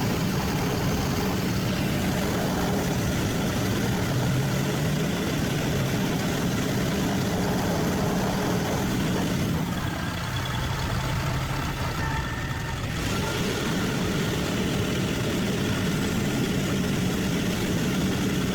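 Freightliner M2 106 bucket truck's diesel engine running steadily near idle, driving the hydraulics while the Terex jib winch and jib are operated. The hum eases slightly about ten seconds in, then steadies again.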